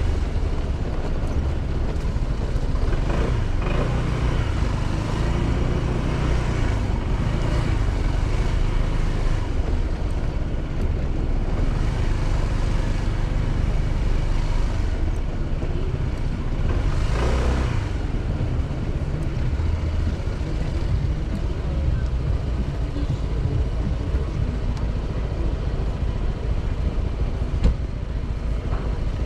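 Motorcycle engine running while cruising, with steady wind and road noise. There is a brief louder rush a little past halfway.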